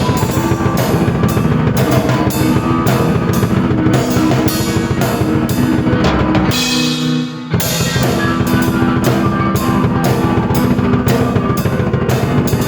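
Drum kit and keyboard played together: a driving beat of bass drum, snare and cymbals over keyboard chords. About six and a half seconds in the drums stop for under a second, leaving held keyboard notes, then the beat comes back in.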